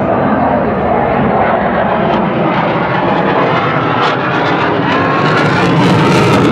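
Aircraft engine noise from an airplane flying at an air show: a steady, loud rush that grows slightly louder near the end.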